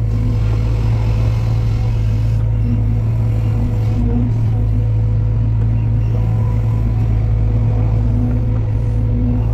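Heavy construction machine's diesel engine running steadily: a constant low drone with no revving.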